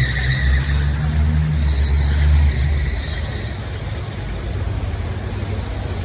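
Car engine running close by with a deep rumble and a high whine, then falling away about two and a half seconds in as the car moves off.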